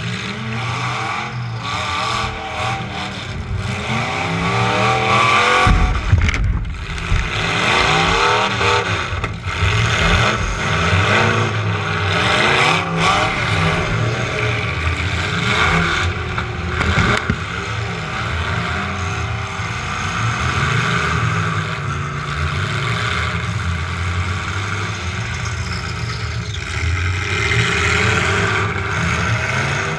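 Demolition derby truck engine revving up and down, with a series of knocks and thumps from collisions, the heaviest about six seconds in.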